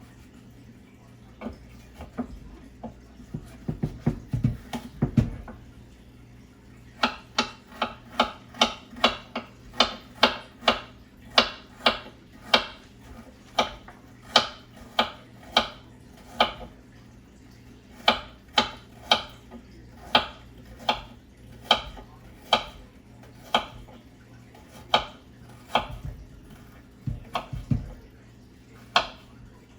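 Kitchen knife chopping carrot on a cutting board: crisp single cuts, about one to two a second, with short pauses. A few duller knocks and handling sounds come in the first five seconds.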